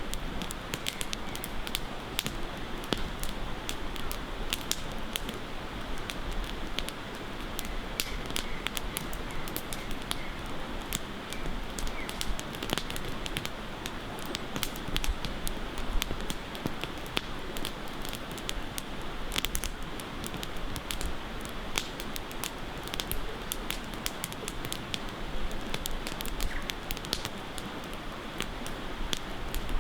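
Campfire crackling, with frequent irregular sharp pops and snaps, over a steady rush of river water.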